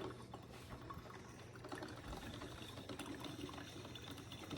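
Nespresso milk frother running: a faint steady hum with the liquid sound of milk swirling as it is whipped and heated.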